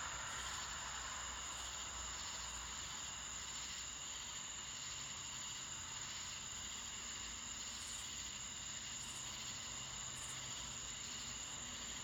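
Steady chorus of crickets and other insects, with a constant high-pitched tone running through it.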